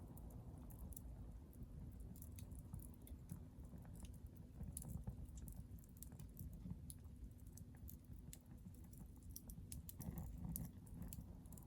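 Hardwood fire crackling in a small titanium fire stand: irregular sharp pops and snaps over a low, steady rumble of the flames.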